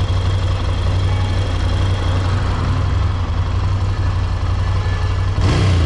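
Ducati Scrambler 803's air-cooled L-twin running steadily at low revs, then a quick throttle blip near the end, its pitch rising and falling.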